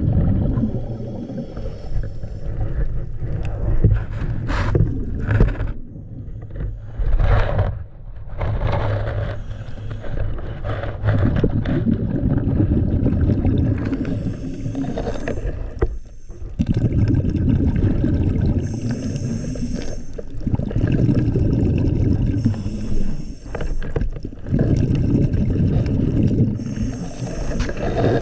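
Scuba diver breathing through a regulator underwater. A short hiss on each inhale is followed by a low rushing burble of exhaled bubbles, repeating about every four seconds in the second half.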